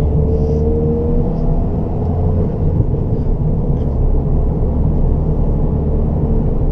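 Ford Fiesta ST's 1.6 EcoBoost turbocharged four-cylinder, fitted with a Revo RT330 upgraded turbo and with its rear silencer in place, running steadily on the move. Heard from inside the cabin with a strong low rumble of road and engine noise.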